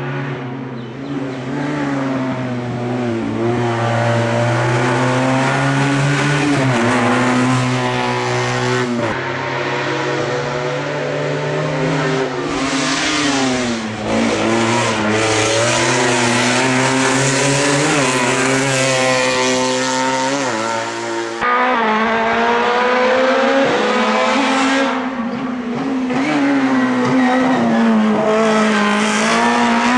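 Slalom race car engine revving hard and easing off again and again as it weaves through the cones, its pitch rising and falling every second or two with throttle lifts and gear changes. The sound breaks off abruptly about two-thirds through and the revving carries on.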